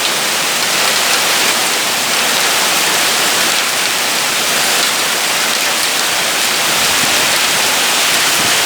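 Heavy rain pouring down in a steady downpour, with hail falling in it.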